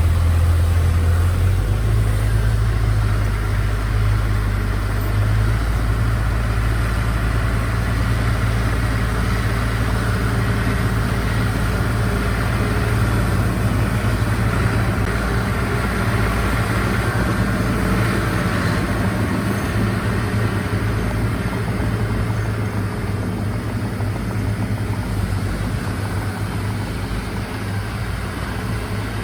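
Diesel engine of heavy earthmoving equipment running steadily, a low drone whose note shifts about a second and a half in.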